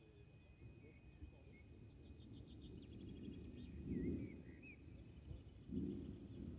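Birds chirping and insects trilling over a low rumble that builds and swells twice, about four and six seconds in; the rumble is typical of distant thunder rolling from an approaching storm.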